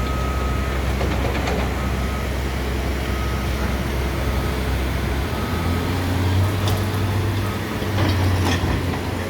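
Heavy diesel construction machine running steadily; its engine note steps up about five seconds in, with a few sharp metallic knocks near the end.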